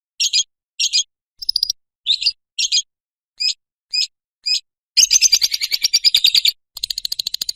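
Lovebird calling: about eight short, sharp chirps roughly half a second apart, then from about five seconds in a long, fast chattering trill (the 'ngekek'), breaking off briefly and starting again near the end.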